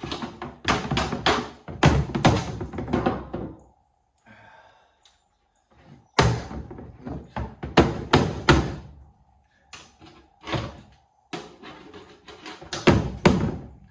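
Shovel scraping and knocking as soiled chicken bedding is shoveled out of a brooder box and dumped into a garbage can. It comes in four bursts of clattering knocks, each a second to several seconds long.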